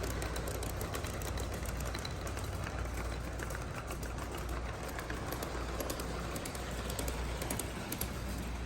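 G scale model train running, pulled by an Aristocraft RS3 locomotive: a steady low hum with many small clicks from the wheels on the track.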